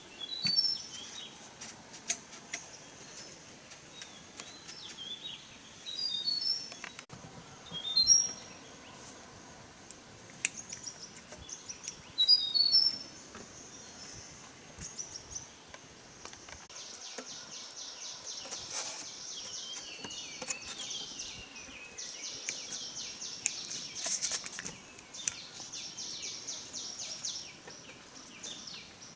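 Wild birds singing short, quick chirping phrases, loudest four times in the first half. In the second half a high steady hiss sets in under more scattered chirps, with a few light clicks throughout.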